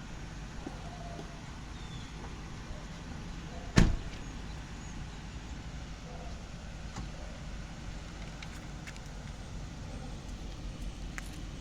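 Steady low rumble of a motor vehicle running, with a single sharp thump about four seconds in.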